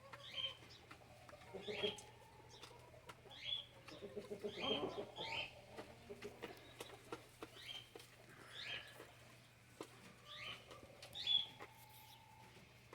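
Brahma chickens feeding, with faint calls and repeated short high chirps at irregular intervals, plus scattered small clicks.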